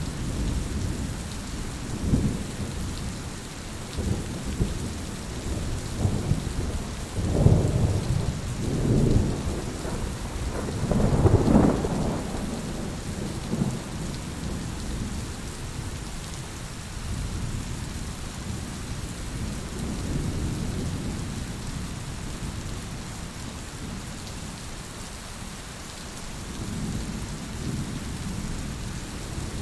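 Steady rain falling, with low rolling rumbles of thunder that swell several times, the loudest a little before halfway through, then softer rumbles near the end.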